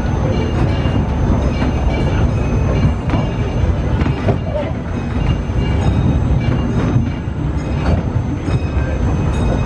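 Disneyland Railroad narrow-gauge train riding along the track: a steady rumble of the cars rolling on the rails, with irregular wheel clicks.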